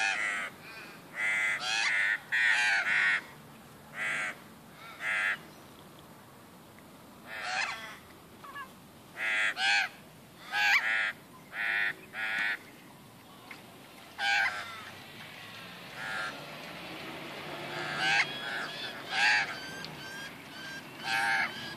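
Crows cawing: short calls, often in runs of two or three, repeating with pauses between the runs.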